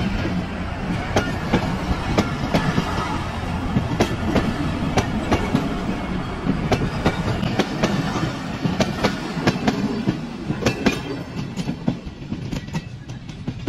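Pakistan Railways passenger coaches rolling past at close range: a steady rumble with many sharp clicks and knocks of the wheels over the rail joints, growing fainter near the end as the last coach goes by.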